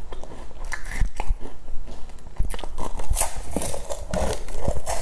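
Close-up mouth sounds of a person biting into and chewing a soft, powder-coated rice cake roll: sticky, wet chewing with scattered short clicks and smacks.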